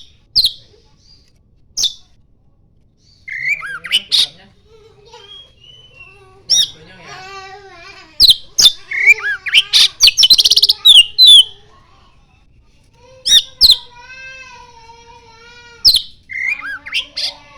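Oriental magpie-robin singing: loud, sharp whistled notes and rapid sweeping phrases in groups with short pauses, densest in the middle. Its song is filled with learned phrases of the common iora.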